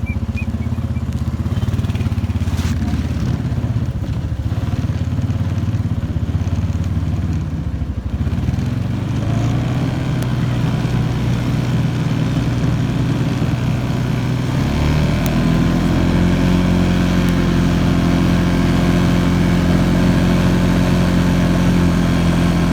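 Honda Foreman 500 ATV's single-cylinder engine running as it pushes a snow plow. The engine note rises about half-way through and again around 15 seconds in, then holds at a higher, steady, slightly louder pitch.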